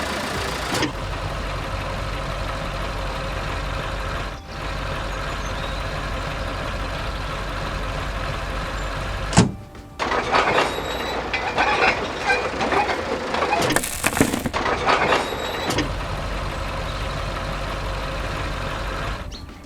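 Tractor engine sound effect running steadily. About halfway through it is broken by a sharp click, then several seconds of irregular clattering with one loud burst, before the steady running returns.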